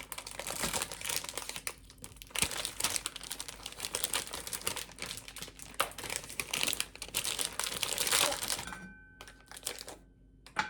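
Crinkling and rustling of something being handled, thick with small clicks, dying down about eight and a half seconds in; after that a faint steady tone.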